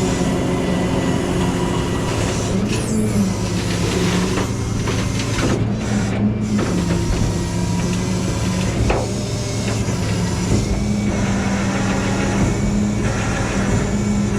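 Tow truck's engine running at a steady speed, with a few short knocks.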